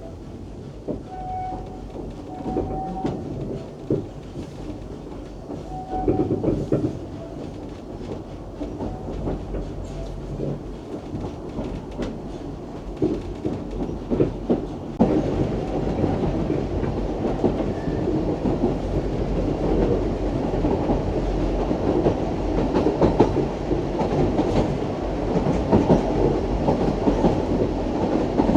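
Isle of Man Steam Railway train running, its carriage wheels rumbling and clicking over the rail joints. The running noise steps up and gets louder about halfway through.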